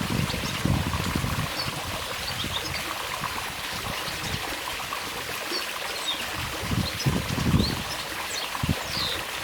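Trickling water running steadily, with short high bird chirps scattered through it and a few low rumbles now and then.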